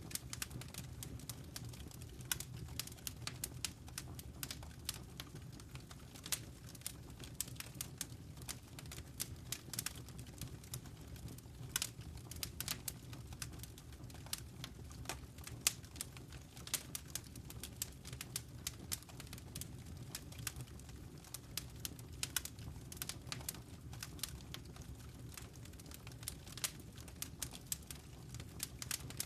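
Wood fire crackling in a fireplace: dense irregular pops and snaps over a steady low rumble of the flames.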